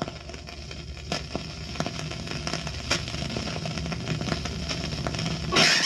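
Recorded sound effect of scattered crackles and pops over a low steady rumble, like a fire burning. Just before the end a sudden, much louder burst of noise sets in.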